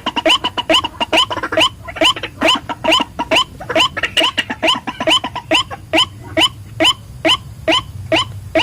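White-breasted waterhen calling: a rapid run of short, rising notes about three a second. In the first half the notes are denser and overlap, as if two birds are calling.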